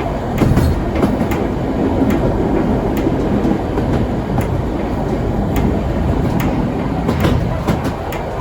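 Heritage steam train rolling along the track: a steady low rumble with frequent, irregular clicks and knocks from the wheels and carriage.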